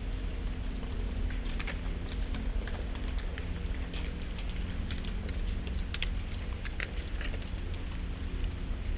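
Dry autumn leaves falling through the branches and landing on the leaf litter, making scattered light ticks and pats at uneven intervals over a steady low background hum.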